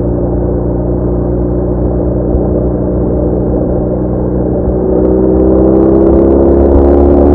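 BMW R1200R boxer-twin motorcycle engine running at a steady pace, then pulling harder about five seconds in, its pitch rising a little and getting louder as the bike accelerates.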